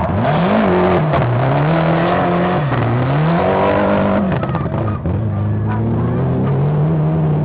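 Rally car engine revving hard through the gears. The pitch climbs and then drops sharply about a second in, climbs again and drops several more times over the next few seconds, then holds a steady note, with road and tyre noise underneath.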